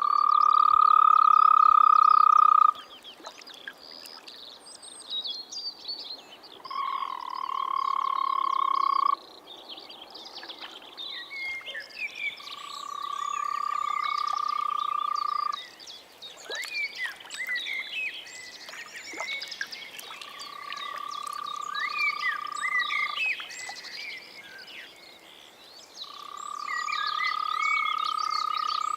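Frog or toad calling in five long, steady, even-pitched calls of about three seconds each, several seconds apart, over a continuous background of many short high chirps.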